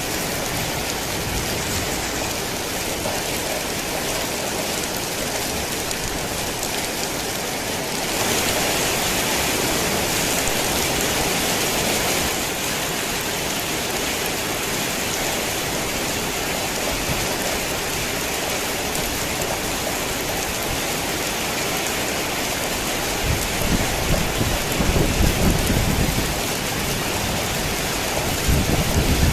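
Heavy rain falling steadily, growing heavier for a few seconds about eight seconds in. Low rumbles of thunder come in near the end.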